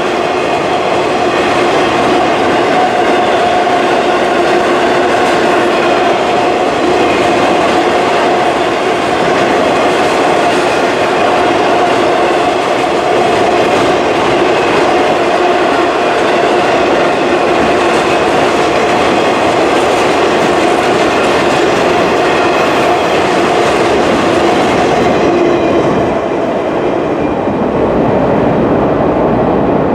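CN freight train rolling past, a steady rush of wheels on rail with a steady whining tone over it. The higher hiss drops away near the end.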